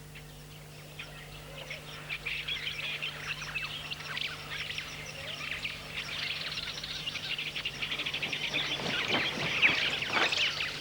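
Chorus of small birds chirping and twittering, many overlapping calls that grow busier and louder towards the end, over a faint steady low hum.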